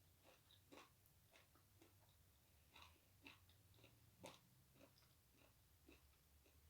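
A person chewing food close to the microphone: faint, irregular mouth clicks and smacks, a few a second.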